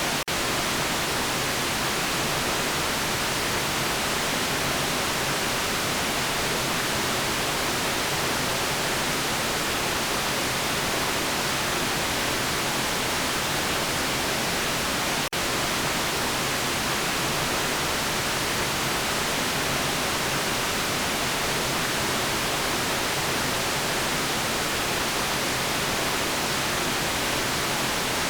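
Steady electronically generated white noise: an even, unchanging hiss. It drops out for a split second about halfway through.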